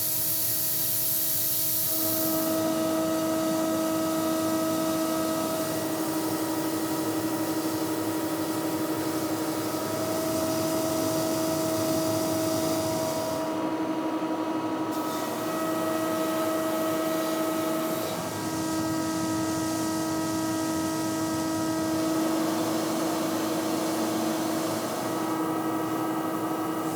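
A hissing spray for the first couple of seconds, then an electric power tool running steadily with a humming whine over a hiss, its pitch shifting slightly every few seconds.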